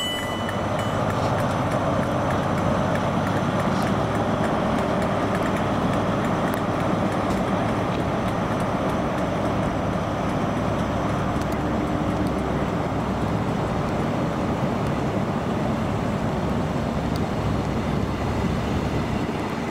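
Train noise at a station platform: a steady, even rumble and rush with no clear rise or fall.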